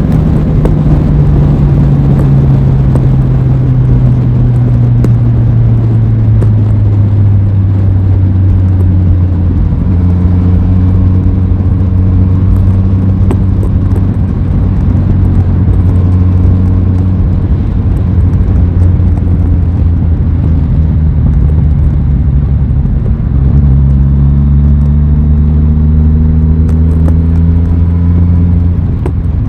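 Aprilia Tuono 660's parallel-twin engine heard on the move. Its note falls steadily over the first several seconds as the bike slows, holds even for a long stretch, then picks up again about three-quarters of the way in and climbs as the bike accelerates.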